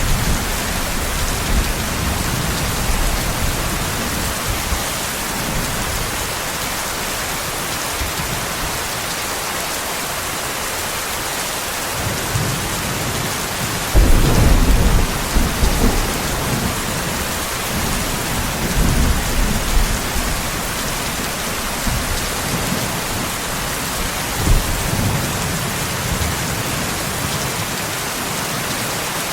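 Steady heavy rain hissing, with thunder rumbling through it: low rolls near the start, a sudden louder clap about halfway, and fainter rumbles after it.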